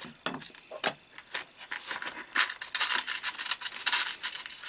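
Small clicks and rubbing of wire and hand tools being handled, sparse at first and then a busy run of scraping and clicking from about two seconds in.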